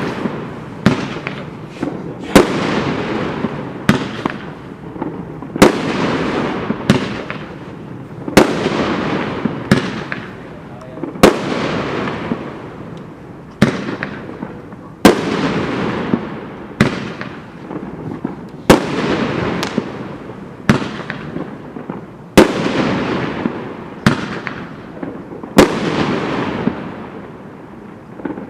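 Mad Ox 'Land Of The Free' firework cake firing shot after shot. Each shot is a sharp report followed by a hissing tail that fades away, and they come about once every one and a half seconds.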